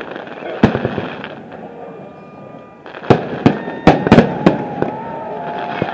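Aerial fireworks shells bursting: sharp booms with crackle between them, a short lull a second and a half in, then a rapid cluster of bangs from about three seconds on.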